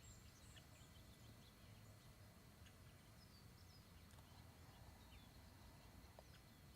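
Near silence: quiet room tone, with a few faint, short, high chirps scattered through.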